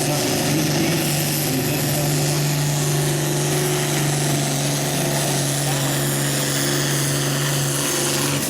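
Hot farm pulling tractor's diesel engine running flat out at steady high revs under heavy load while pulling the sled.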